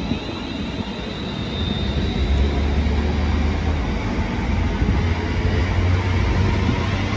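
London Northwestern Railway Class 350 Desiro electric multiple unit moving through the station: a steady low rumble of the train with a faint high whine, growing a little louder after about two seconds.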